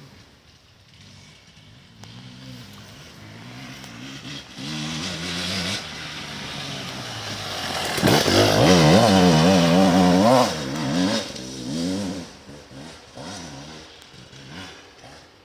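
Enduro motorcycle engine approaching, passing loudest just past halfway with the revs rising and falling in quick blips, then fading away.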